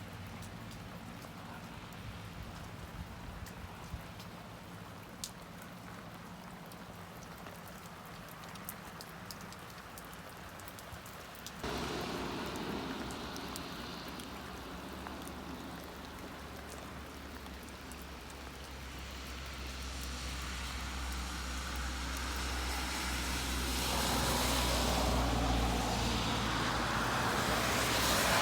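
Light rain with scattered drip ticks. About halfway through, a steady rushing noise starts suddenly and grows louder toward the end.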